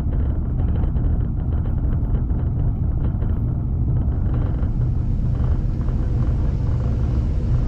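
Heritage passenger train running along the line: a steady, heavy rumble of wheels on rails with fine rattling. About halfway through, a hiss joins in.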